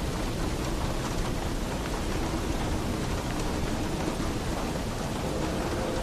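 Steady heavy rain falling on a roof, an even hiss with a low rumble underneath.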